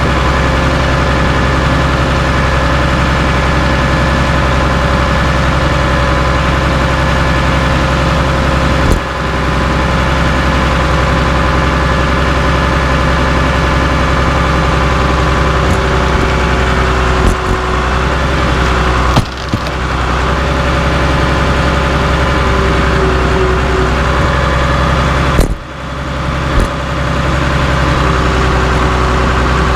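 Caterpillar D3C bulldozer's diesel engine running steadily while it crushes scrap steel wheels, with sharp metal bangs about nine seconds in, twice in the middle and twice near the end.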